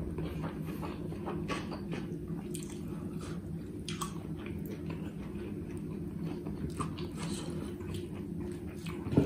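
Chewing and mouth smacking of a man eating rice and buffalo curry by hand, with scattered soft clicks over a steady low hum, and one louder click near the end.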